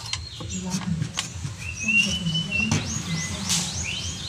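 Small birds chirping, with one held whistle note and a quick run of chirps near the end, over a few light clicks.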